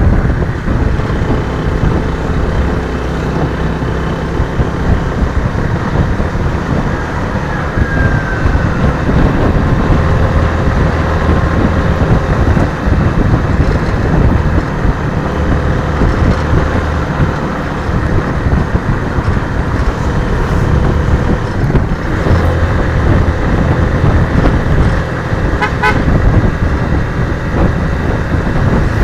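Suzuki Raider 150 FI's single-cylinder engine running steadily while riding, with wind and road noise on the bike-mounted microphone. A brief horn toot near the end.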